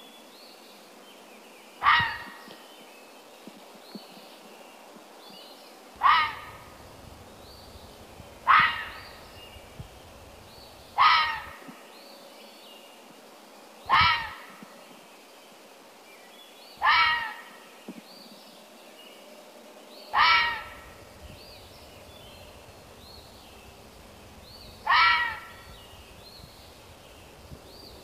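A crow cawing: single short calls every few seconds, about eight in all, each dropping slightly in pitch at its end, over faint chirping of small birds.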